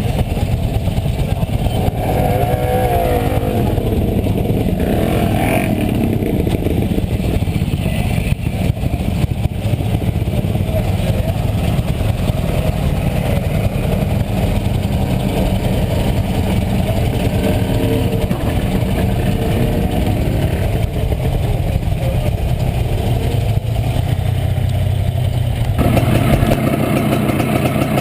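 1967 Montesa Impala Comando 175's two-stroke single-cylinder engine running steadily while riding. Its note changes about two seconds before the end.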